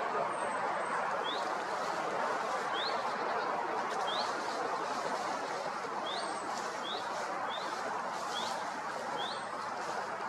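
Wild birds calling in woodland: short rising chirps repeated about once a second, coming closer together in the second half, with a few faint high falling notes, over a steady rushing background.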